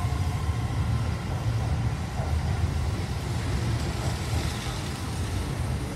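Keihan electric commuter train pulling out along the platform, its cars rolling past with a low, steady rumble of wheels on the rails.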